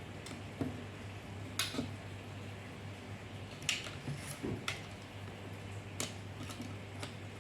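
A few light, sharp clicks and knocks from small parts being handled, spaced a second or more apart, over a low steady hum.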